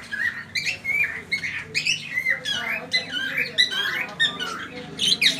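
A flock of caged aviary birds chirping and squawking over one another, a constant chatter of short calls that bend up and down in pitch.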